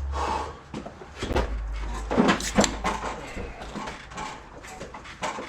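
Knocks and clatter of a motorcycle and gear being handled in a garage, over a low rumble that stops about three seconds in.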